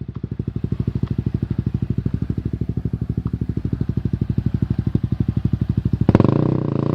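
Off-road motorcycle engine idling with an even, rapid pulse, with a louder burst about six seconds in.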